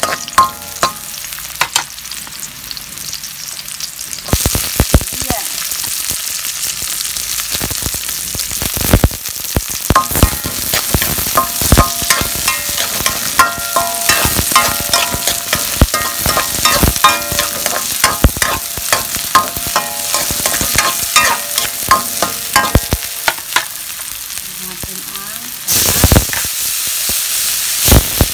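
Chopped garlic, ginger and onion sizzling in hot oil in a wok, stirred with a spatula that scrapes and knocks against the pan. The sizzle steps up louder near the end.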